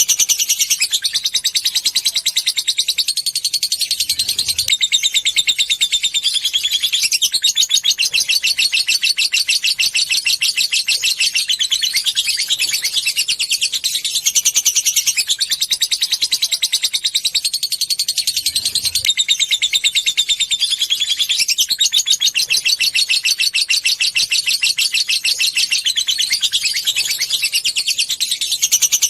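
Lovebird's long, unbroken chattering trill (ngekek panjang): a very fast, high-pitched run of chips that never pauses and changes its pattern every few seconds.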